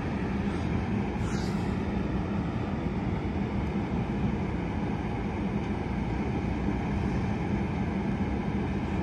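Amtrak Capitol Corridor train standing at the station platform, giving off a steady low rumble with a constant hum.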